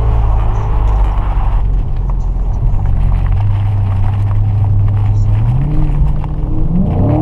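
Dodge Challenger Scat Pack's 6.4-litre HEMI V8 running at a steady cruise, with tyre hiss on wet road. Near the end the engine pitch rises as the car accelerates.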